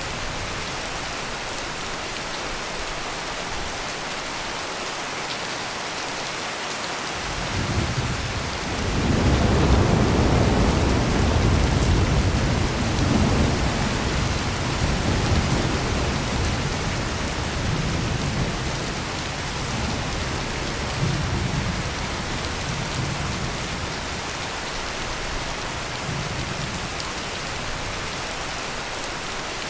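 Heavy rain pouring steadily, with a long roll of thunder that swells about seven or eight seconds in and slowly rumbles away over the next fifteen seconds or so.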